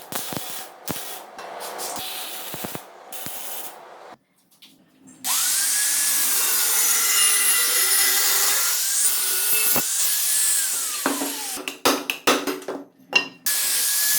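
Scraping and rubbing sounds, then a power tool runs steadily for about six seconds and winds down with a falling pitch. A quick series of sharp knocks follows near the end.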